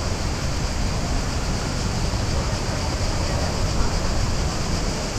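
Waterfall's steady rush of falling water, even and unbroken, with a heavy low rumble.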